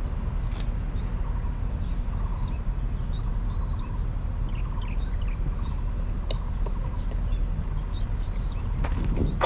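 Birds chirping in short, high calls scattered throughout, over a steady low rumble. A few sharp clicks, with louder knocks near the end.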